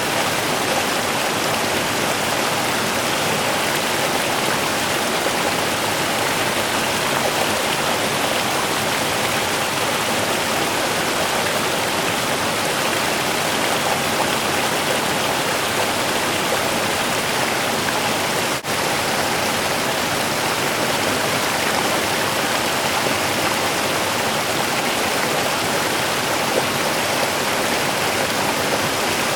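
Small river running: a steady, even rush and babble of water over its bed. A brief dip in level with a faint click about two-thirds of the way through.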